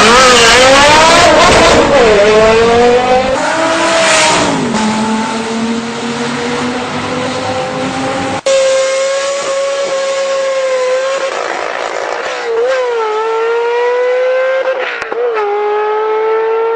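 Supercar engine pulling away hard, its pitch rising and then dropping repeatedly as it shifts gears, a little quieter after the first few seconds. There is a brief sharp break about eight seconds in.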